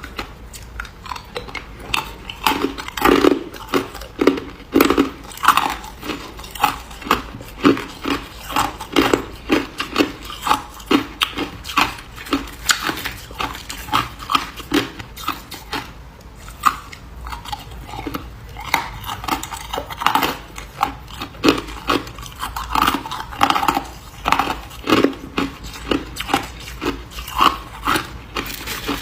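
A person biting and chewing ice close to the microphone, with a stream of sharp, irregular crunches, several a second.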